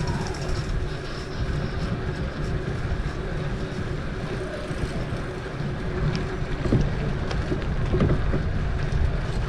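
Wind buffeting the microphone of a camera carried on a moving bicycle, a steady low rumble with a few faint clicks.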